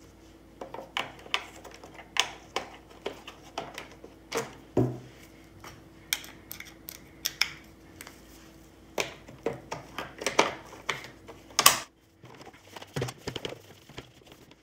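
Irregular clicks, taps and clatter of a Roomba 650 robot vacuum's plastic parts being handled and worked on by hand, over a faint steady hum that stops about twelve seconds in.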